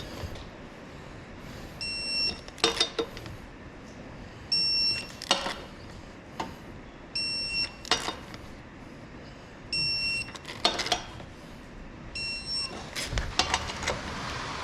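Five short electronic beeps at a steady spacing of about two and a half seconds, each followed by a quick cluster of metallic clicks, with a busier run of clicks near the end.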